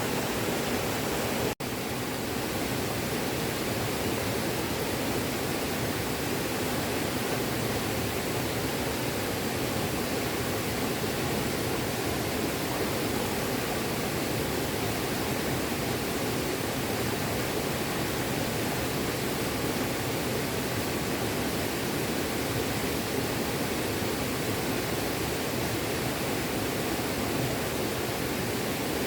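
Small stream flowing steadily over rocks, a constant rushing of water, with a momentary break in the sound about a second and a half in.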